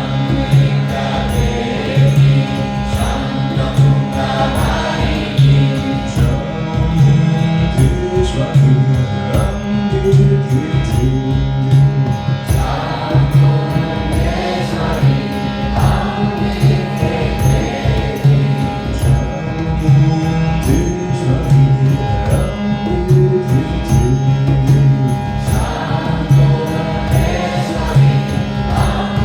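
Kirtan: a voice chanting a mantra in a wavering melody over a steady held drone, with a light regular beat.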